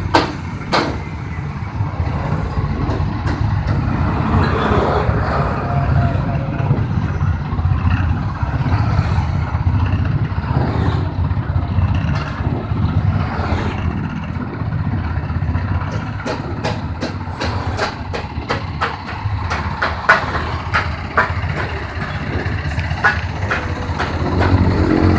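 Livestock feed mixer machine running steadily with a low, continuous motor hum, punctuated by sharp clicks and rattles near the start and again through the last third.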